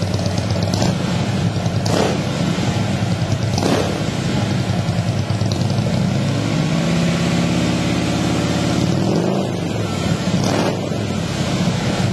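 Harley-Davidson Twin Cam 103 V-twin of a 2010 Street Glide Trike running through Jackpot Dyna-Tune mufflers on the stock catalytic head pipe, with a stage 1 air filter. It idles with quick throttle blips, and about halfway through it is revved up and held for a couple of seconds before dropping back to idle.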